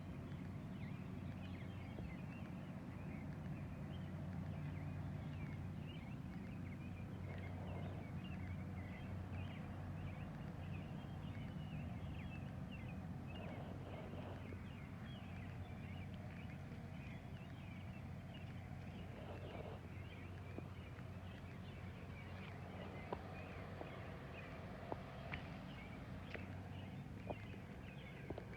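Garden ambience after rain: many small birds chirping in short, quick calls, over a steady low hum, with a few faint clicks near the end.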